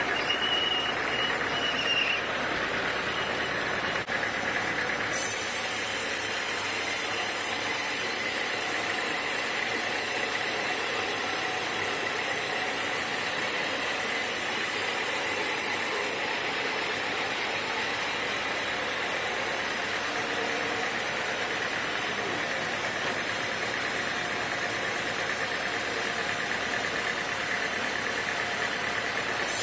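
Sawmill machinery with an engine running steadily. A short high tone sounds in the first two seconds, and a higher hiss joins from about five to sixteen seconds in.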